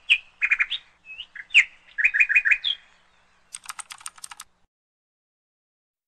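A bird chirping in short repeated phrases of quick notes. About three and a half seconds in, a quick run of about ten clicks follows, like keyboard typing, lasting about a second, then nothing.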